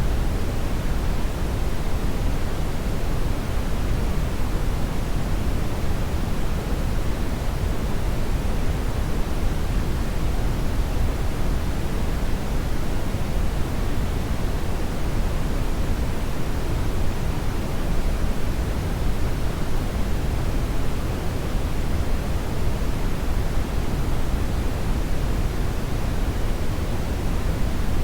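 Hair dryer blowing steadily: an even rush of air, heaviest in the low end, with no change in speed or pitch.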